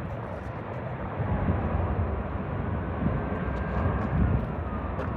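Jet airliner engines: a steady rush with a faint whine that slowly falls in pitch.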